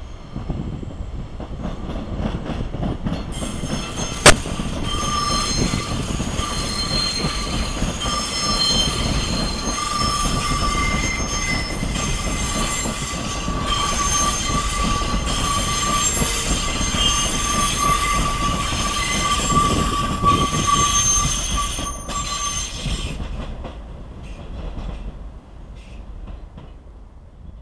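A double NS Sprinter Light Train, an electric multiple unit, rumbling past over the rails, with one sharp crack about four seconds in. Its wheels squeal in several steady high tones for most of the pass, and the sound fades away near the end.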